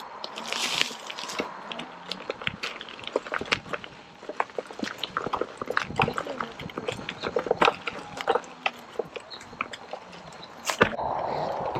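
Irregular clicking and knocking of stones and gravel on a rocky trail, with a brief hiss about a second in.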